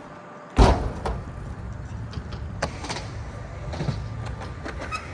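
BMX bike landing with a heavy thump about half a second in, then its tyres rolling on the skatepark ramp, with a few lighter knocks of tyre and frame on the ramp.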